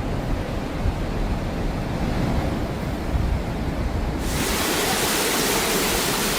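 Strong wind gusting and buffeting the microphone, a dense low rush with uneven swells. About four seconds in it switches abruptly to a steady, loud hiss of wind and sea.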